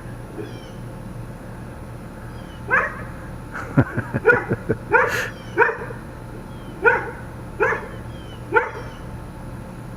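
A dog barking in short, separate barks, about seven of them, starting a few seconds in and spaced irregularly, over a steady low hum.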